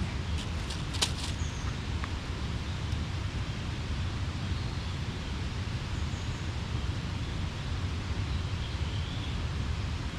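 Steady low outdoor rumble with a few sharp clicks about a second in and faint high chirps now and then.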